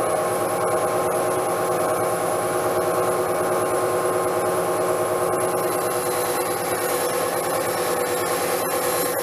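Power tool running steadily while it works wood, with an even motor whine and the hiss of the cut or sanding.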